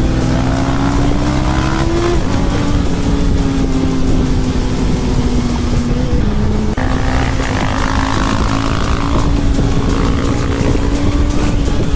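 Honda CB1000R inline-four motorcycle engine running under way. Its pitch climbs, then drops sharply about two seconds in as it shifts up, and steps again near seven seconds.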